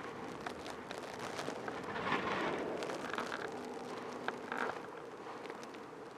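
Wind and blowing snow outdoors: a steady hiss peppered with small ticks, swelling briefly about two seconds in, over a faint steady hum.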